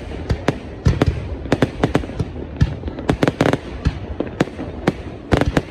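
Fireworks display going off: an irregular, rapid series of sharp bangs and pops, several a second, over a steady background din.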